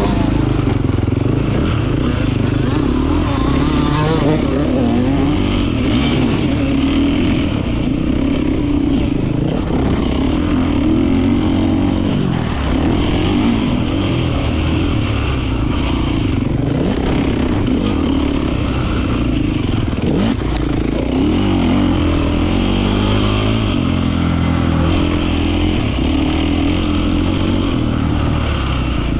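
Beta 450 RX's four-stroke single-cylinder engine being ridden hard, its pitch rising and falling again and again with throttle and gear changes.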